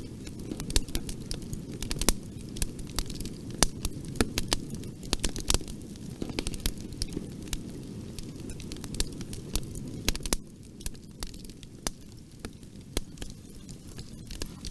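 Fireplace fire crackling, with frequent sharp irregular pops over a steady low rumble of flames. About ten seconds in the low rumble drops slightly while the crackles go on.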